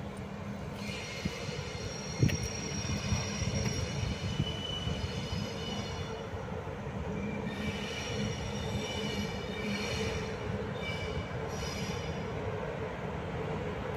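Train rolling slowly over the rails with a low rumble, its wheels squealing in high steady tones that come and go, and a single knock a couple of seconds in.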